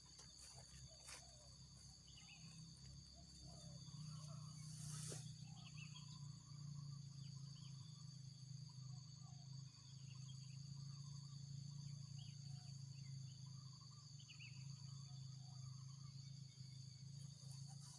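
Faint, steady chorus of crickets or other insects, several high-pitched trills held throughout, over a low steady hum that grows louder about four seconds in. There is a brief rustle-like noise about five seconds in.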